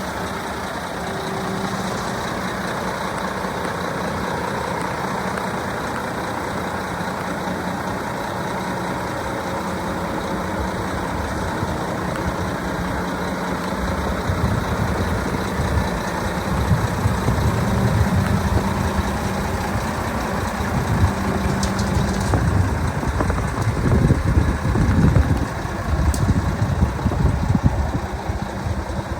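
Volvo FM410 cement mixer truck's 13-litre six-cylinder diesel engine idling steadily. From about halfway through, a louder, uneven low rumble joins in and grows toward the end.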